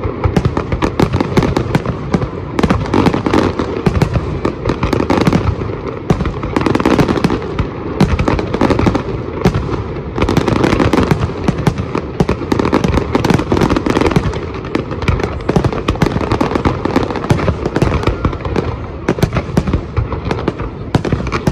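Fireworks display going off close overhead: a continuous, dense barrage of rapid bangs and pops with no pauses.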